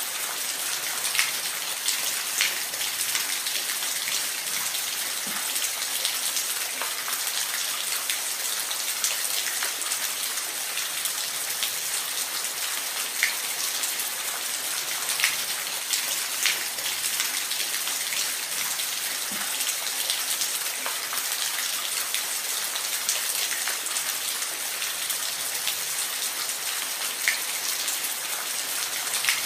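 Steady hiss of falling water splashing, with scattered sharp drip-like ticks over it.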